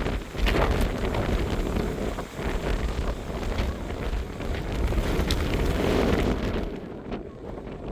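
Strong gusty wind in the mountains, buffeting the microphone with a heavy low rumble, easing about six and a half seconds in.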